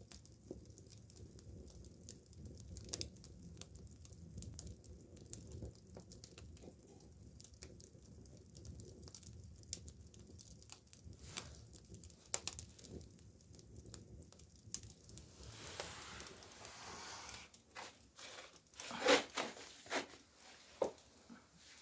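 Wood campfire crackling, with scattered sharp pops and snaps over a low rumble. A soft rushing hiss comes in about two-thirds of the way through, followed by a cluster of louder pops.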